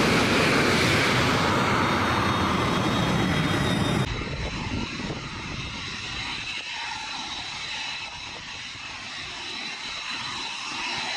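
Jet noise from an F-22 Raptor's twin turbofan engines in flight, loud and dense. About four seconds in it cuts abruptly to a quieter, more distant jet rumble with a faint steady high tone.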